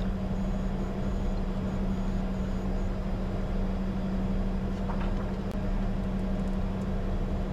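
Steady cockpit hum of a Bombardier Challenger 605 at a standstill with both General Electric CF34 turbofans still at idle, carrying a constant low drone. A faint short chirp comes about five seconds in.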